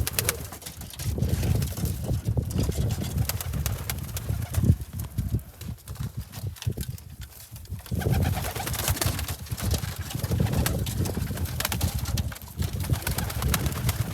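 A flock of domestic pigeons cooing together in a loft, many overlapping low coos, with wing flaps and scuffling clicks.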